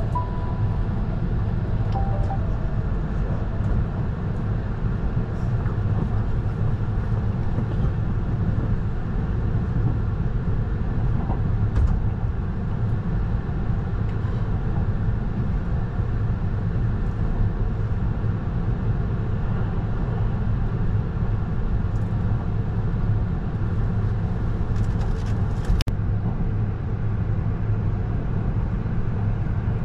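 Inside a moving train, the steady low rumble of the running carriage and wheels on the rails, with a sharp click near the end.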